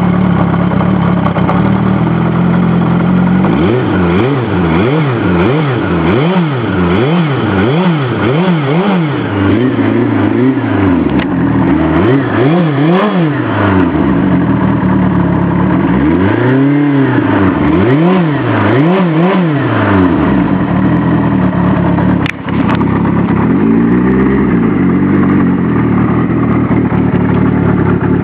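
Kawasaki GPz750 Turbo's air-cooled inline-four running cold, with the throttle blipped again and again: quick revs up and back down, a little over one a second at first, then a few longer revs, before it settles to a steady idle. The engine is cold and stubborn to idle. A single sharp click comes about three-quarters of the way through.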